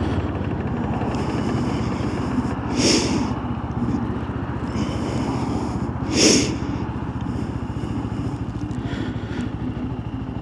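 Benelli BN 125's small single-cylinder engine running steadily under way, with road and wind noise. There are two brief rushing noises, about three and six seconds in.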